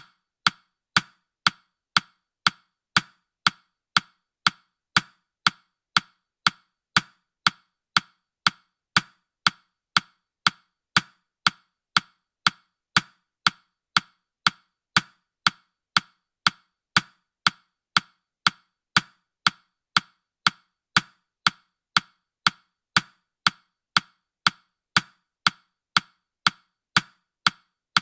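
Countdown-timer ticking sound effect: sharp, identical clock-like ticks repeating evenly at about two a second.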